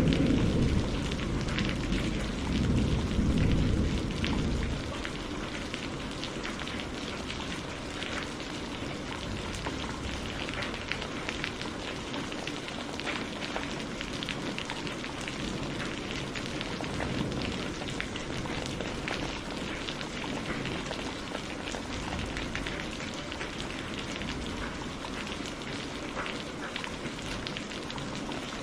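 Steady rainfall, an even hiss dotted with the patter of individual drops. A low thunder rumble dies away over the first few seconds.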